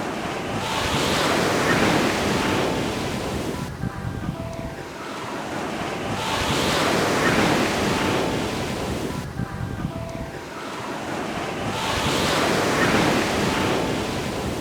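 Ocean waves breaking and washing up a beach. Three waves surge in about five and a half seconds apart, each rising to a hiss and then ebbing away.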